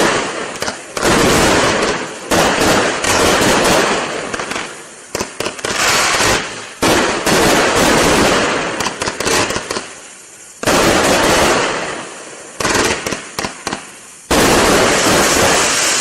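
Calavera multi-shot firework cakes firing: a rapid run of sudden shots and bursting breaks, coming in loud clusters a second or two long with brief lulls between them.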